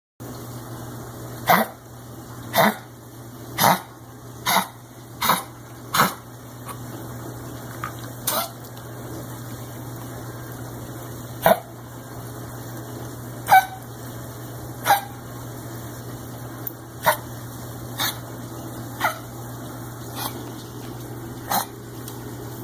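A dog coughing in short, sharp hacks: a quick run of about six roughly a second apart, then single coughs every second or two, about fifteen in all. A steady low hum runs underneath.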